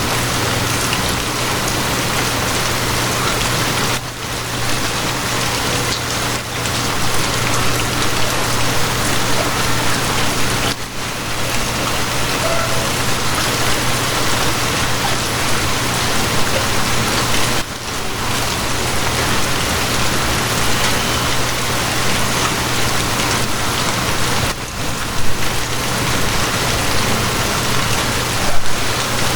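Steady rain, a dense even hiss, with short dips about every seven seconds and a couple of louder spatters near the end.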